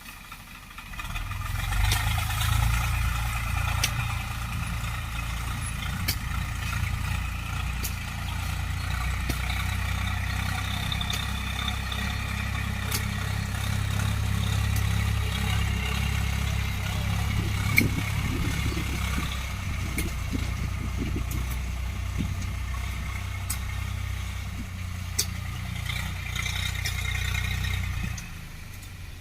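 Tractor diesel engine running steadily with a low drone. It comes up about a second in and drops away near the end.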